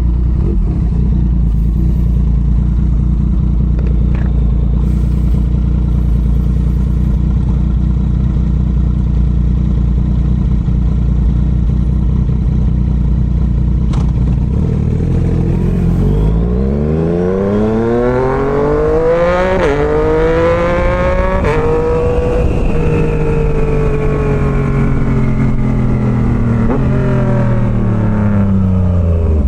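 Yamaha MT-09's three-cylinder engine under way with a steady low rumble and wind noise, then revving hard through two quick upshifts about two-thirds of the way through, then falling slowly in pitch as the throttle rolls off.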